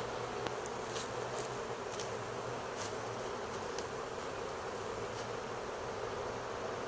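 Dense, steady buzzing of a honey bee swarm in flight all around, with a few faint ticks in the first few seconds.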